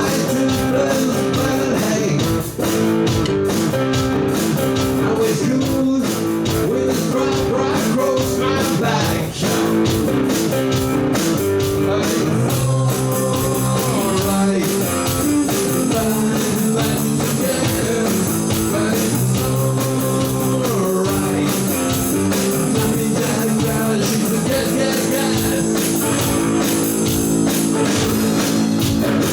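A rock band playing live, with electric guitars, drums and a singing voice; the sound gets fuller and brighter about twelve seconds in.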